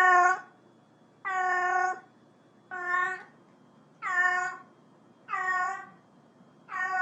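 A cat meowing over and over, six evenly spaced meows about a second and a half apart.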